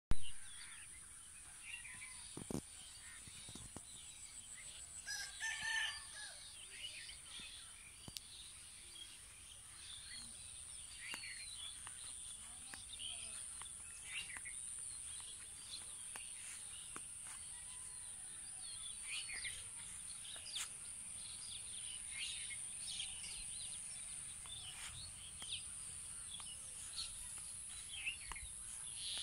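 A rooster crows once, about five seconds in. Small birds chirp on and off throughout, over a steady high-pitched hiss.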